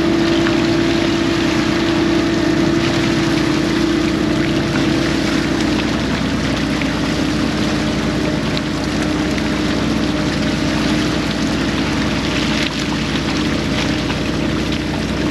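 Fishing boat's engine running steadily, a constant hum, with splashing water.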